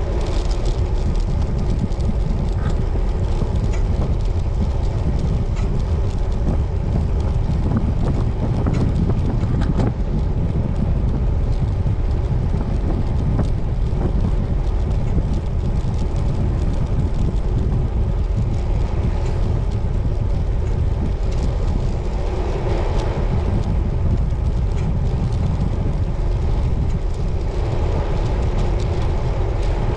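Wind rumbling on the microphone of a rider on a moving road bicycle, steady and loud.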